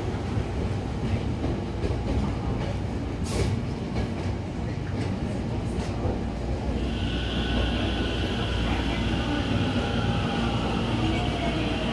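Electric train moving along a station platform, a steady low rumble throughout. A single sharp click comes about three seconds in. From about seven seconds a high steady squeal joins, with a lower tone that falls near the end.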